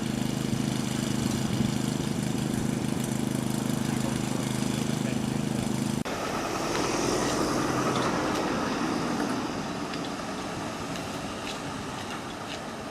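Vehicle engine idling steadily with an even low hum. About six seconds in it cuts abruptly to a noisier, unpitched outdoor passage that grows fainter toward the end.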